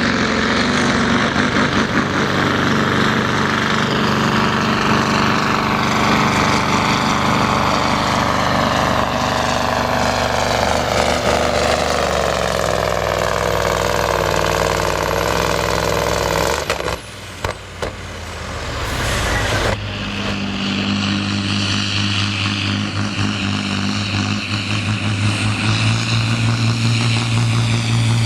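Pulling truck's diesel engine running at full power under heavy load, its pitch slowly falling as the load drags it down. About 17 seconds in, the engine note drops away abruptly and a broad hiss follows for a couple of seconds. Then the engine runs on steadily at a constant pitch.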